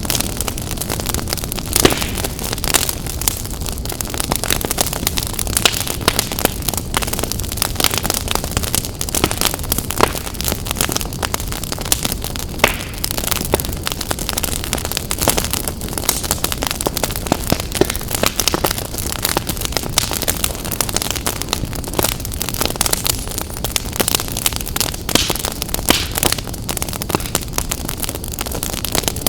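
Wood fire in a fireplace crackling, with frequent sharp pops and snaps over a steady low rushing noise.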